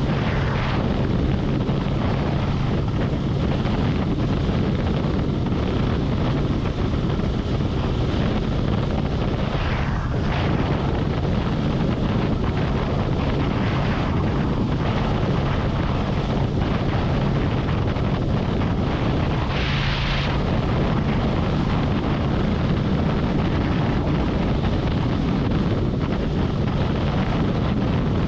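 Harley-Davidson Road Glide motorcycle cruising at highway speed: a steady engine and exhaust drone under continuous wind rush on the microphone. Brief rushes of hiss come about ten seconds in and again, louder, about twenty seconds in.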